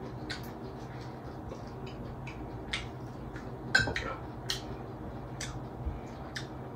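Close-up mukbang eating sounds: chewing and lip-smacking on tough chicken while the meat is torn apart by hand. The sound is a run of many short, sharp, wet clicks, the loudest just under four seconds in, over a steady low hum.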